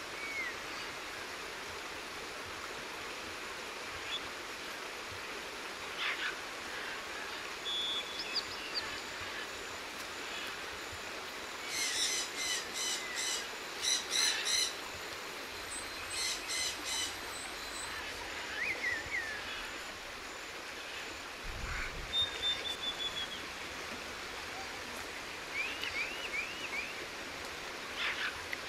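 Forest birds chirping over a steady background hiss, with scattered short calls and a fast run of repeated calls about twelve seconds in.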